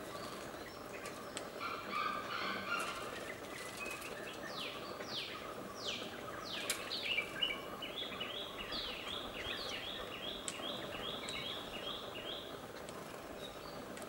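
Songbird calling over a steady background hiss: a few quick downward-sweeping whistles, then a run of short repeated notes at about two a second.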